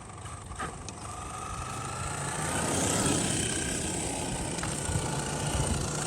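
Traxxas XRT RC monster truck driving, its brushless electric motor whining over tyre noise; the sound grows louder over the first few seconds and then holds steady.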